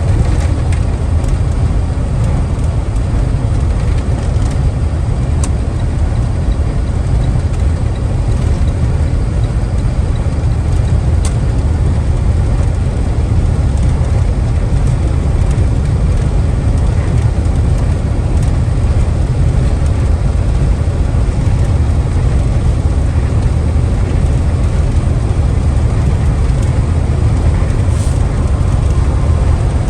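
Box truck driving on the road: a steady low engine and road rumble.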